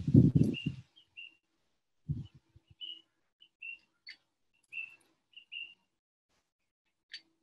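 Garden birds chirping, repeated short high notes with two quick downward-sweeping calls about four and seven seconds in. A loud low rush of noise fills the first second, and a dull thump comes about two seconds in.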